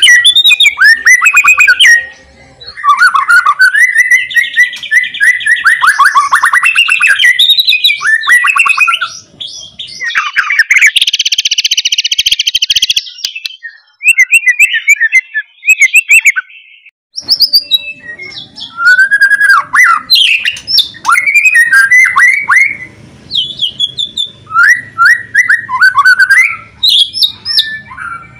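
White-rumped shama (murai batu) singing loudly: fast, varied whistled phrases broken by short pauses, with a harsh buzzing rattle lasting about two seconds near the middle.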